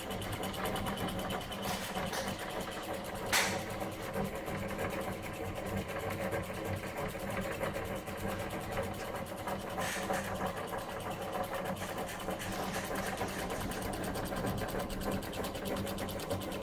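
Small Stirling engine running steadily and driving a Wilesco D141 toy steam engine, a fast, even mechanical whirr and clatter. A sharp click about three and a half seconds in, and a fainter one about ten seconds in.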